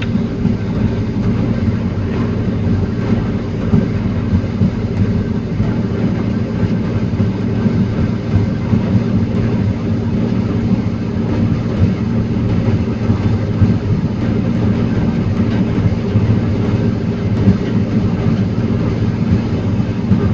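Heavy engine of a forestry loading machine running steadily at a constant speed.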